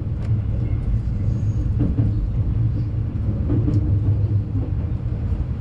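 Passenger train running: a steady low rumble of the wheels on the rails, with a few faint clicks.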